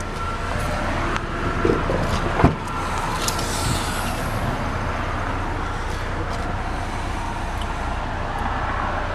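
2013 Chevy Equinox's 2.4-litre four-cylinder engine idling steadily, growing louder about a second in, with one sharp knock about two and a half seconds in.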